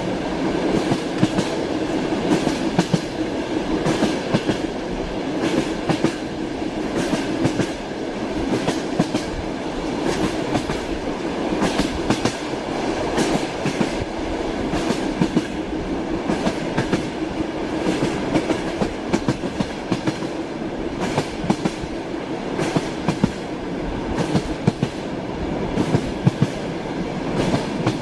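Train wheels clacking over rail joints: repeated sharp clacks over a steady rolling rumble of a moving railway carriage.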